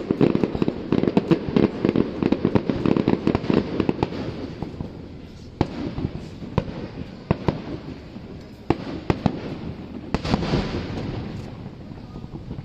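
Aerial fireworks exploding: a dense volley of rapid bangs for about four seconds, then scattered single booms, and a louder burst with crackling about ten seconds in.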